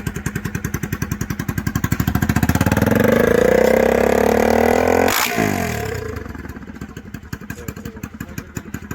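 Bajaj Pulsar NS 200's single-cylinder engine running with its silencer removed, open exhaust: it is blipped up to high revs and held for a couple of seconds, gives a sharp crack as the revs drop, and settles back to idle.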